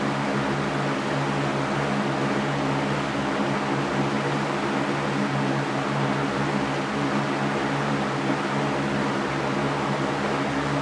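Electric fan running steadily: an even rushing of air with a low motor hum beneath it.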